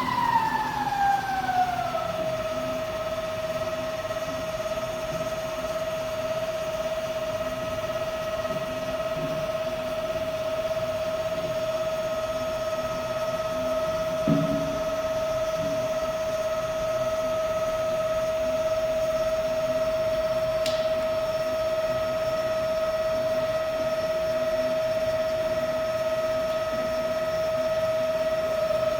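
Hyd-Mech V-20 vertical band saw running with a steady whine. The whine slides down in pitch over the first two seconds, as if the variable blade speed is being lowered, then holds steady. A single dull thump comes about halfway through.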